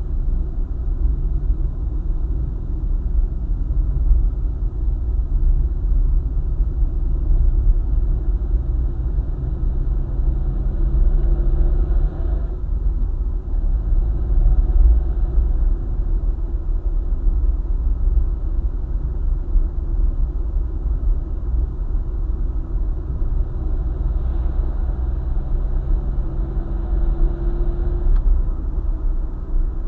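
Car driving at highway speed, a steady low rumble of road and engine noise. A faint tone rises slightly twice.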